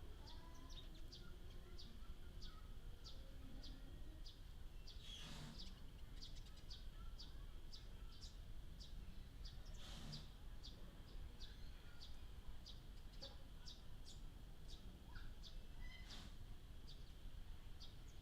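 Small birds chirping: short, high chirps repeated irregularly, about one or two a second, over a faint low background rumble. A few louder, fuller sounds come about five, ten and sixteen seconds in.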